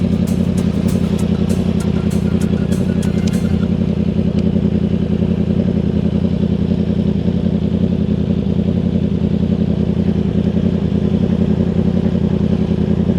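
Yamaha R1 motorcycle's inline-four engine idling steadily, with a run of light clicks in the first few seconds.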